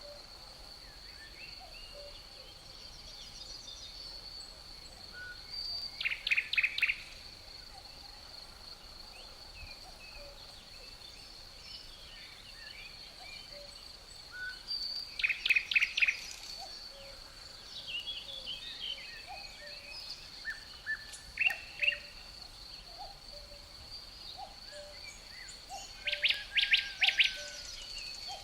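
Songbirds singing: four loud bursts of rapid repeated notes several seconds apart, with fainter scattered chirps between them, over a steady high-pitched drone.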